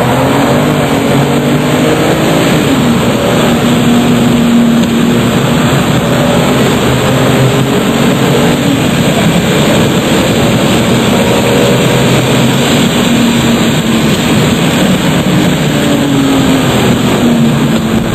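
RUF Yellow Bird's twin-turbo flat-six engine running hard under load, its pitch rising and falling as the car accelerates and changes gear. Heavy wind and tyre noise goes with it.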